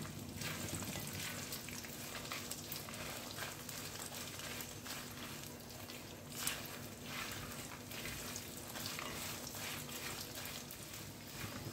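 Nuts, curry leaves and chillies frying in a little oil in a steel kadai while a wooden spatula stirs them: a low sizzle with crackles and scraping against the pan, one sharper click about six and a half seconds in.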